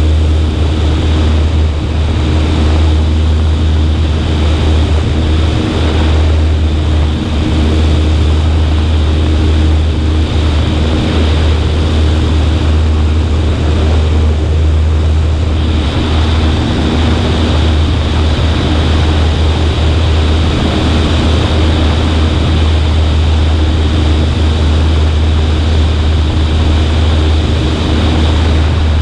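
Cessna 140A's piston engine and propeller droning steadily in cruise, with wind noise rushing over a wing-mounted camera.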